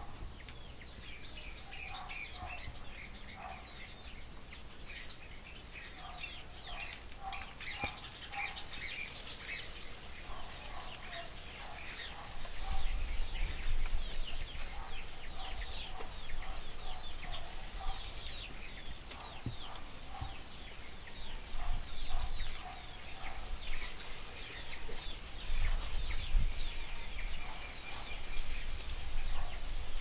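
A busy chorus of small birds chirping, many short falling chirps overlapping, with lower short notes repeated in small groups underneath. Bursts of low rumble come about twelve seconds in and again near the end.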